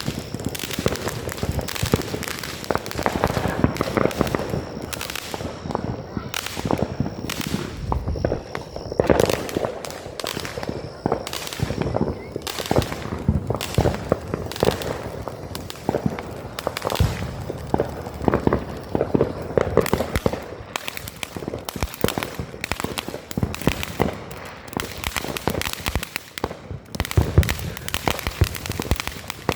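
Fireworks and firecrackers going off: a dense run of sharp bangs and crackles, one after another. A faint steady high tone runs for several seconds in the first half.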